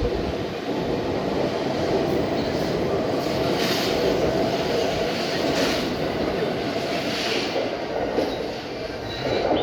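E491 'East i-E' electric inspection train running through the station: a steady rolling rumble of wheels on rail, with three short bursts of higher-pitched rail noise about two seconds apart in the middle, easing off near the end.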